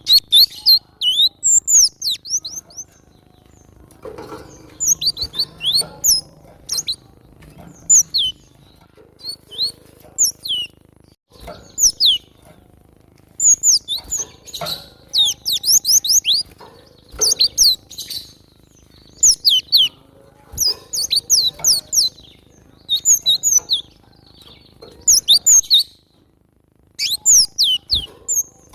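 Cinereous tit calling: short, rapid bursts of high, quick downward-sweeping notes, repeated every second or two with brief pauses between phrases.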